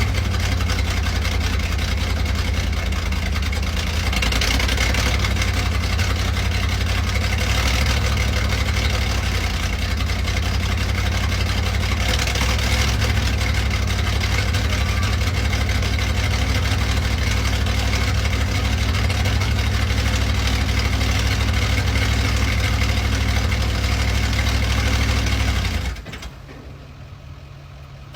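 Chevrolet C60 dump truck's engine idling steadily, then cutting out abruptly near the end.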